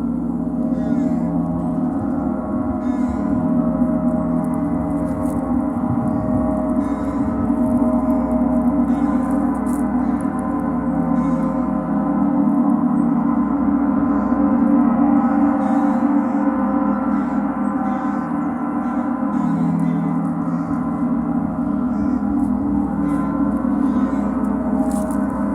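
Gong played in a sound bath: a continuous wash of many overlapping, sustained tones that swells and eases gently as the playing keeps it ringing.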